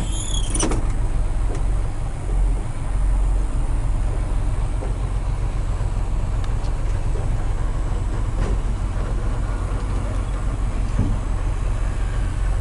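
Steady low diesel engine rumble with a fine, even pulse, heard from inside a heavy truck's cab.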